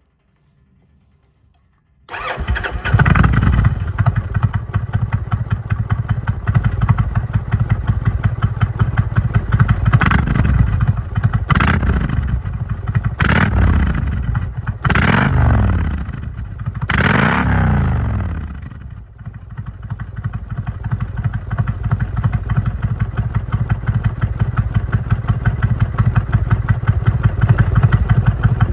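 Kawasaki Vulcan 1500 Classic V-twin with a Vance & Hines full exhaust starting up about two seconds in and running. It is revved briefly about five times, the pitch rising and falling each time, then settles back to a steady idle.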